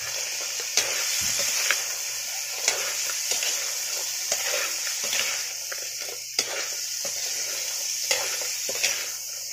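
Fiddler crabs stir-frying in a metal wok: a steady sizzle, with a metal spatula scraping and clinking against the pan now and then.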